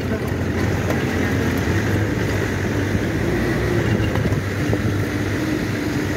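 Swaraj Mazda (SML) truck's diesel engine running steadily as the truck drives a rough, slippery road, with scattered light knocks and rattles.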